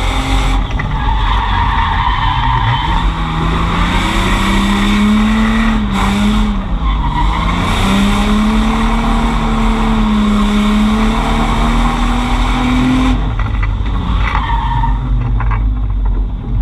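Drift car engine held at high revs through a slide, tyres squealing. The revs dip briefly about halfway, climb back, and fall off near the end.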